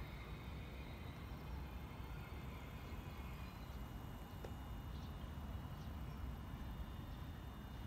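Low, steady rumble of a Keikyu 800 series electric train rolling slowly over the depot tracks as it draws to a stop, with a few faint light clicks midway.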